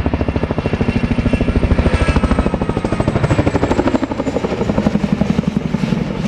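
Boeing Chinook tandem-rotor helicopter flying low in a display, its rotor blades beating rapidly and evenly, with a faint high turbine whine slowly falling in pitch above it.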